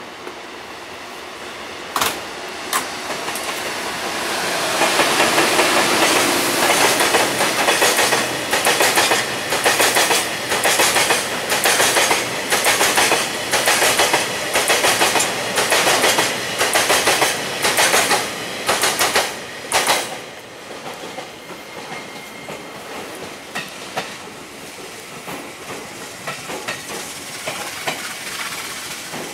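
A train running past on the rails, its wheels clacking over the rail joints in a steady rhythm. The clacking builds over the first few seconds, is loudest for about fifteen seconds, then stops fairly suddenly about two-thirds of the way through, leaving a fading rumble.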